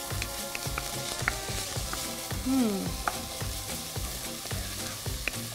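Onion, crushed garlic and fresh coriander sizzling in hot oil in a pot, stirred with a wooden spoon that clicks against the pot now and then.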